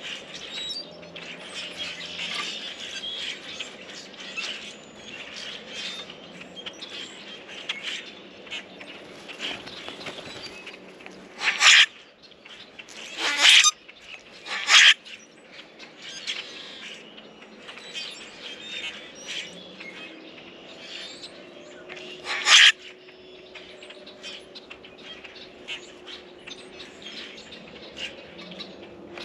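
Small songbirds at a feeder chirping, with many small clicks and taps throughout. Four loud, short, sudden bursts come about a third of the way in, twice shortly after, and again about three-quarters through.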